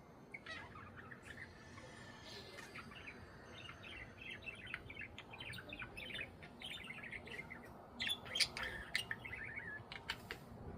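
Budgerigars chattering: a fast, continuous stream of short chirps and warbles, with a few louder, sharper calls near the end.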